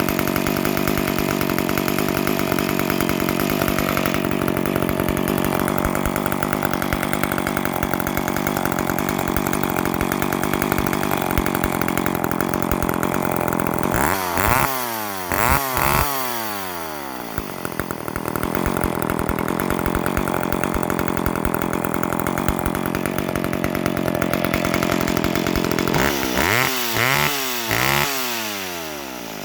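McCulloch 10-10 chainsaw's 54cc two-stroke engine running on its test run after sitting unused for years. It holds a steady note, then the throttle is blipped a few times about halfway through and again near the end, the revs rising sharply and falling away each time.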